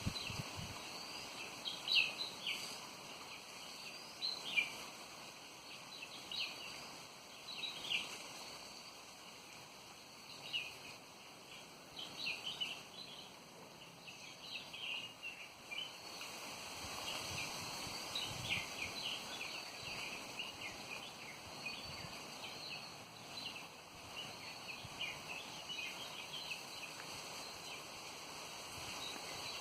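Many small birds chirping, a steady stream of short, high, quick calls overlapping one another, with wind rumbling on the microphone at times.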